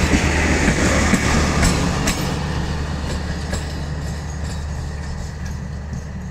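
A train running on the rails, with a steady low hum and a few wheel clicks near the start; the sound slowly fades as the train moves away.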